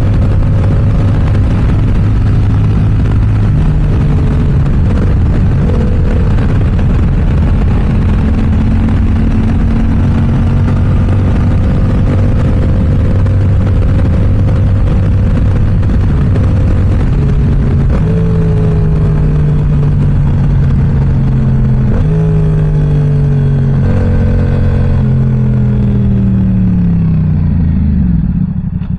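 Yamaha R7's parallel-twin engine through an M4 aftermarket exhaust, ridden hard: the revs climb and drop again and again as it works through the gears, with a run of quick shifts in the latter half. Near the end the revs fall away steadily as it slows down.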